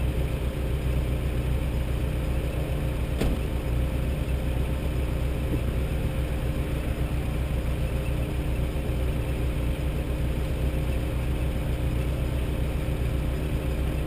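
Off-road four-wheel-drive's engine idling steadily, a heavy low rumble heard close from a camera mounted on the vehicle, with one short click about three seconds in.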